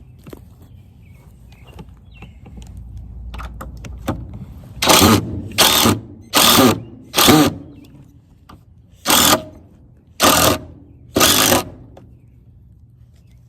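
Power drill driving screws, likely hinge screws going into a wooden door frame, in seven short bursts: four in quick succession, then three more about a second apart.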